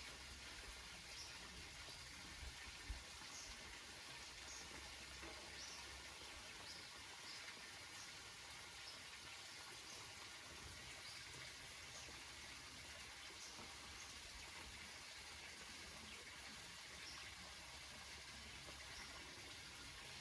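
Rain falling on banana leaves: a faint steady hiss of rain, with scattered single drops ticking now and then.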